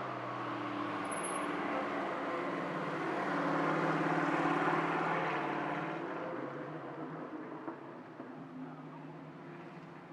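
Vintage straight-eight car engine running as the car drives past, growing louder to a peak about halfway through and then fading away.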